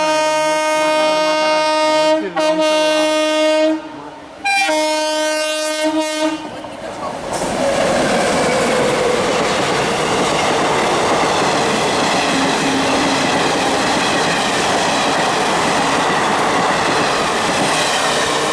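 Diesel locomotive horn sounding three blasts, each roughly one and a half to two seconds long. The train then passes close by with a steady, loud rumble and clatter of wheels over the rail joints.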